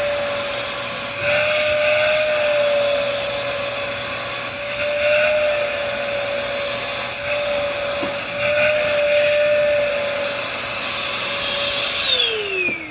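2010 Sanitare Multi-Pro commercial upright vacuum cleaner running with a steady whine that wavers slightly. Near the end the motor shuts off and the whine falls in pitch as it winds down.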